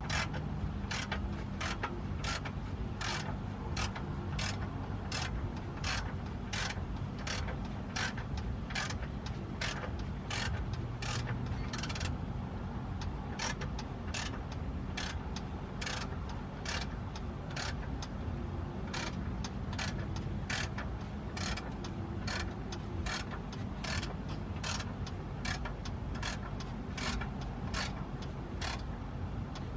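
Ratchet wrench being worked in steady back-and-forth strokes, a short burst of clicks about twice a second, over a steady low hum.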